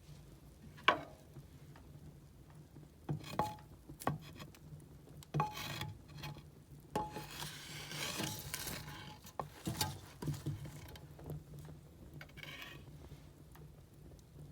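Burning firewood crackling and popping, with irregular sharp pops (the loudest about a second in) and a hissing, crackling stretch around the middle, over a faint steady low hum.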